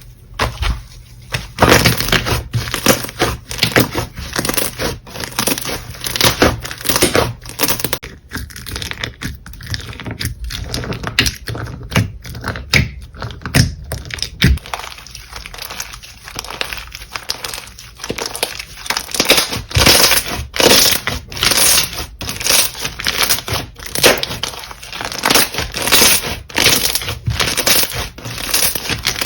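Slime being squeezed and pressed by hand, giving crackling, crunchy pops. In the second half the presses come in a steady rhythm.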